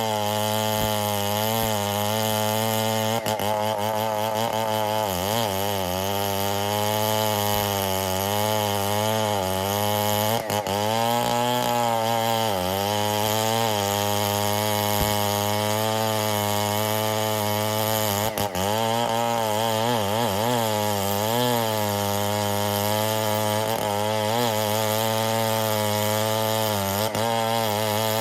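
Stihl 070 two-stroke chainsaw running steadily under load while cutting ironwood, its pitch dipping and recovering several times as the bar bites.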